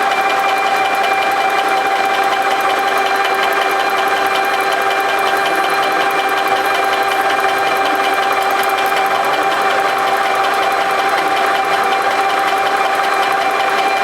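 Twin alpha-type Stirling engine running steadily at speed: an even hum with a fast, regular mechanical ticking.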